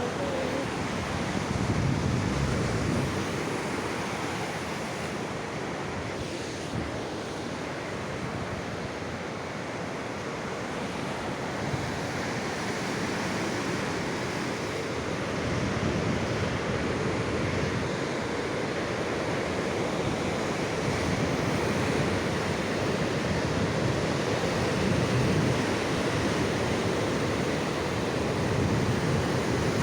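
Mediterranean sea waves washing onto the shore: a steady rush that swells and eases every several seconds.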